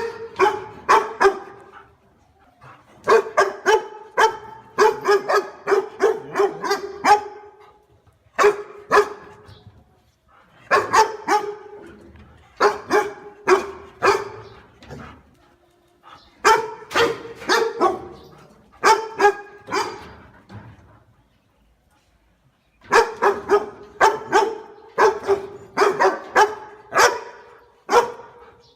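A dog barking in rapid volleys of sharp barks, about three or four a second, broken by short pauses of one to two seconds.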